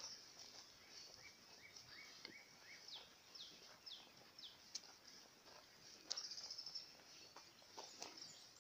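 Faint wild birds calling: a run of short chirps, then several quick down-slurred whistles, and a brief buzzy trill about six seconds in.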